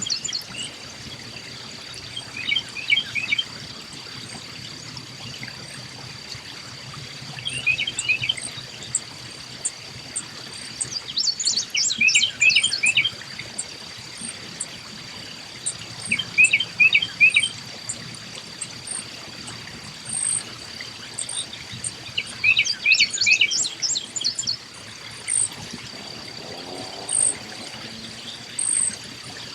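Small backyard birds chirping in short bursts of several quick notes every few seconds, with scattered single very high chips, over a steady high-pitched insect drone.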